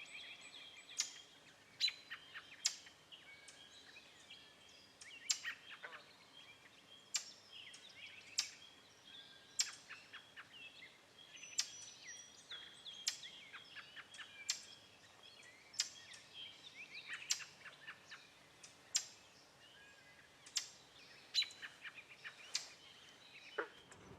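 Small birds calling: sharp, brief chirps about once a second or a little slower, with softer twittering calls in between.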